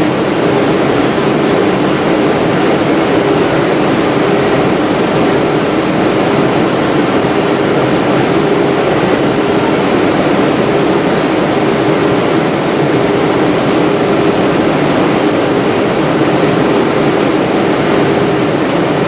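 Steady drone of an airliner cabin in flight: jet engine noise and rushing air, with a constant low hum and no change in level.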